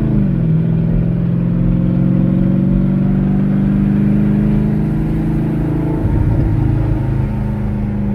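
Twin-turbocharged 6th-gen Camaro SS's 6.2-litre V8 heard from inside the cabin while driving. Its note drops quickly at the start, then climbs slowly as the car gathers speed under light throttle.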